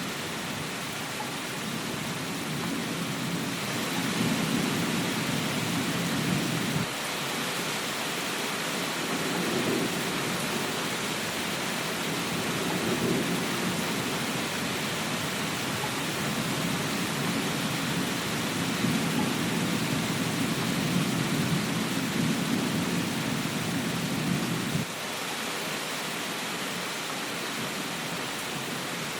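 Steady rain hiss with a low rumble that swells and then cuts off abruptly twice, about seven seconds in and again near the end.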